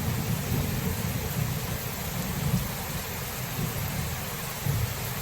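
Thunderstorm: steady rain hiss with a low rolling rumble of distant thunder that swells and ebbs, fading slowly, with one brief swell near the end.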